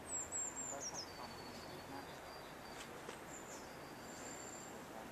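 Outdoor ambience with a bird singing thin, high whistled notes: a short falling phrase in the first second, then long held notes and a few more brief phrases, over a faint steady hiss.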